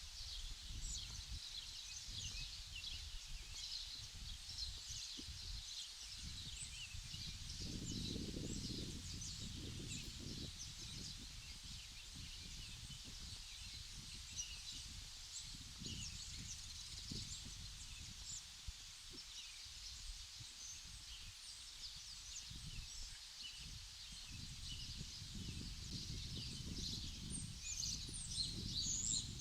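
Many small birds chirping continuously in short, irregular calls, over a low rumble of wind on the microphone that swells for a couple of seconds about eight seconds in.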